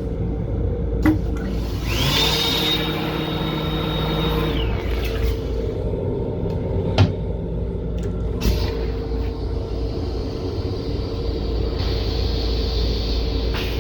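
Steady running rumble and hum of a Long Island Rail Road M7 electric railcar heard inside its restroom. About two seconds in a hiss with a steady high whine starts and lasts about two and a half seconds, and a few sharp clicks sound later.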